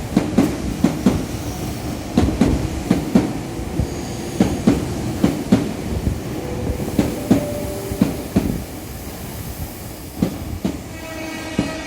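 Meitetsu 1200 series Panorama Super train coupled with an 1800 series set pulling in, its wheels clacking over the rail joints, with the clacks spacing out as it slows. A few short steady tones sound near the end.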